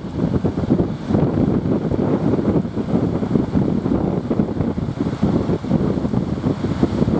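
Strong wind buffeting the microphone in gusts, a loud rough rumble that covers everything else.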